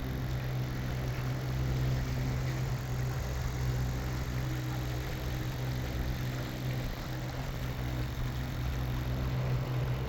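Boat's outboard motor running steadily at low speed: an even low hum.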